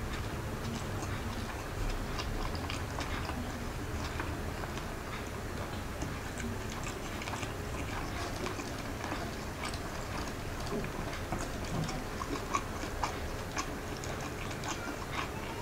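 A person chewing a mouthful of fried rice and siomai close to the microphone: many soft, irregular wet clicks and smacks, over a low steady hum.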